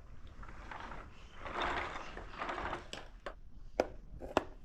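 A handful of sharp knocks in quick succession in the second half, the loudest near the end, after a stretch of soft rustling.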